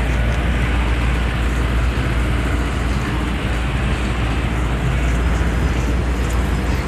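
Steady, unbroken low rumble of a moving vehicle or traffic.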